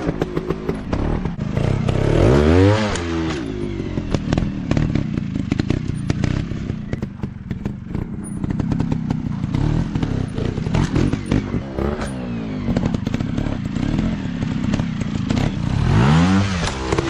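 Off-road dirt bike engine revving up and back down a couple of seconds in and again near the end, running with a dense rapid clatter in between.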